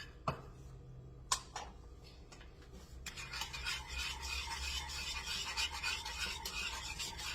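A few light clicks of a utensil against the pan, then from about three seconds in a steady rubbing scrape of a utensil stirring thick gravy in a pan.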